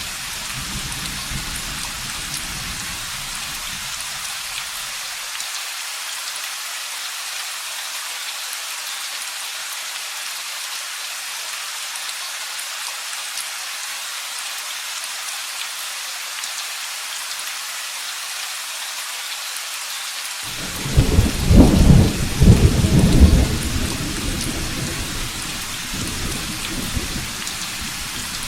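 Steady rain hissing, with a fading low rumble of thunder at the start. About two-thirds of the way through comes a loud, deep crack and rumble of thunder that rolls off over the following seconds.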